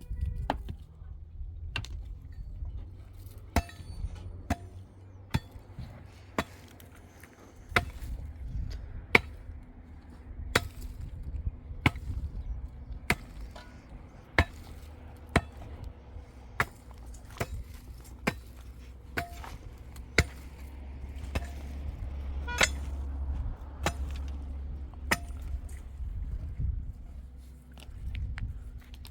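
Repeated sharp chopping strikes with a hand tool, irregular at roughly one a second, some with a brief ring, over a low steady rumble.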